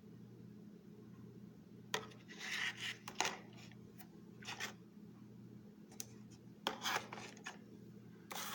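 Plastic blister-carded toy cars and protector cases being handled: several short bursts of plastic rubbing and clicking, over a low steady hum.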